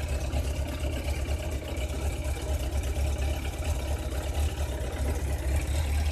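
Suzuki GSX750F's inline-four engine idling steadily after a cold start, an even low rumble.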